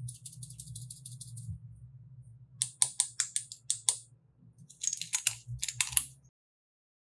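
Slime being squeezed and pressed, with a soft crackle followed by a quick run of sharp clicking pops and two more short clusters of clicks. The sound cuts off suddenly near the end.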